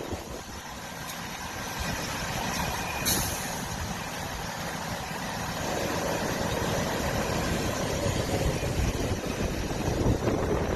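Heavy fire truck engine running steadily, with one brief sharp hiss about three seconds in.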